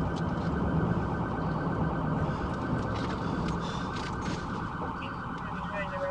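Electronic emergency siren sounding a fast, steady, pulsing warble, over a low rumble.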